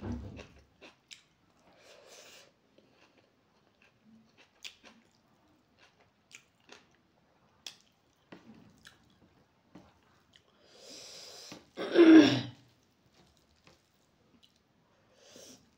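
Close-miked chewing of a mouthful of rice and curry, with scattered soft wet mouth clicks. About eleven seconds in, a drawn breath in, then one loud sneeze, the loudest sound.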